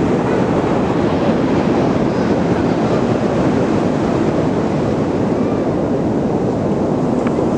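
Ocean surf on the shore: a loud, steady rushing noise without breaks.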